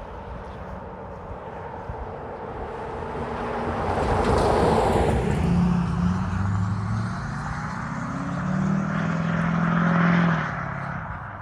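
A motor vehicle passing close by. The noise builds to a peak about four to five seconds in, then an engine hum holds at a few steady pitches and swells again near the end before fading.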